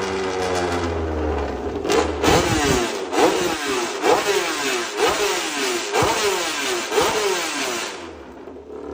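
Honda RC213V-S's V4 engine on a dyno, idling and then blipped about six times, roughly once a second, each rev sweeping sharply up and back down before it settles back to a quieter idle near the end.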